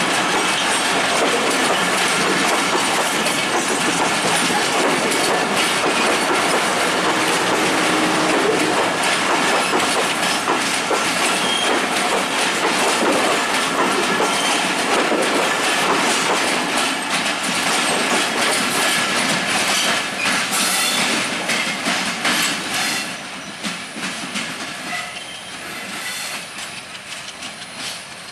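Passenger coaches of a diesel-hauled intercity train rolling past close by: steady clickety-clack of the wheels over the rail joints with a running rumble, fading noticeably as the train draws away near the end.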